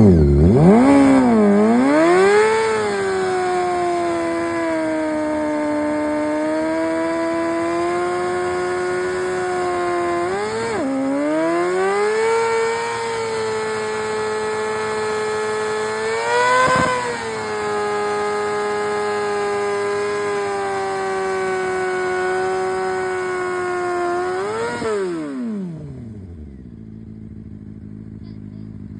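Suzuki GSX-R600's inline-four engine held high in the revs for a burnout, its pitch dipping and climbing back a couple of times, with a single sharp crack about two-thirds of the way through. Near the end the revs fall away and the sound drops much quieter.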